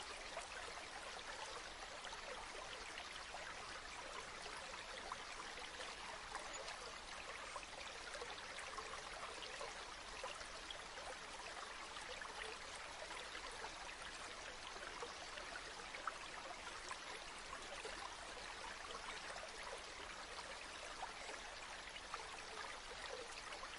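A river running steadily: an even, unbroken wash of flowing water.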